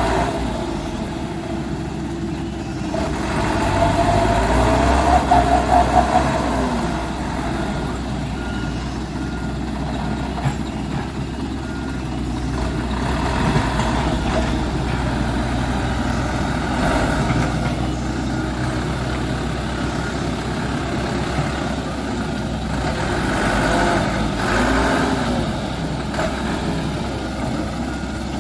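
Dump truck engine running continuously while the truck manoeuvres, its pitch rising and falling a few times as it is revved.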